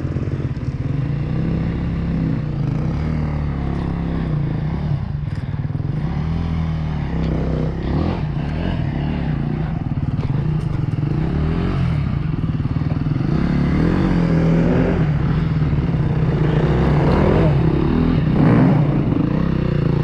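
Single-cylinder four-stroke KTM 350 EXC-F dirt bike engine running at low to mid revs, the revs rising and falling as it is ridden over rough ground, with a few short knocks.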